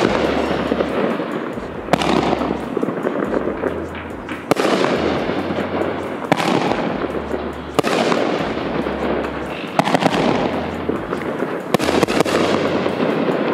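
Death Blossom 3-inch shell cake firing: about seven sharp bangs roughly two seconds apart, each followed by a fading crackling hiss as the platinum willow shells break and burn out.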